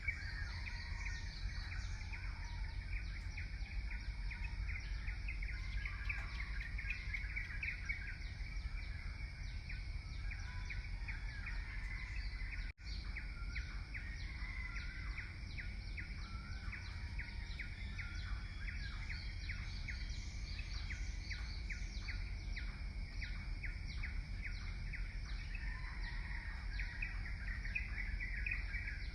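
Birds chirping in rapid, dense short notes over a steady low rumble of outdoor ambience, with a brief break in the sound about halfway through.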